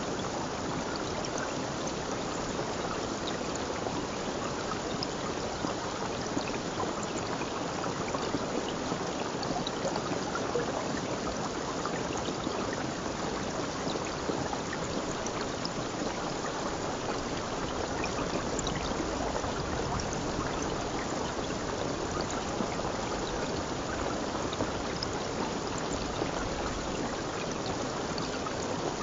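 Water flowing steadily, with a constant rushing sound and small splashes scattered through it.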